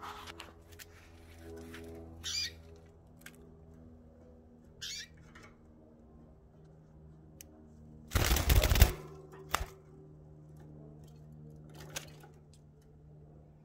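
Pet birds giving a few short chirps over a steady low hum, with a loud rustling burst under a second long about eight seconds in, and a couple of faint clicks.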